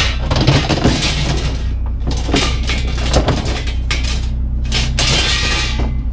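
Metal clattering and scraping in three bursts as a metal shelf is handled, over the steady hum of an idling truck engine.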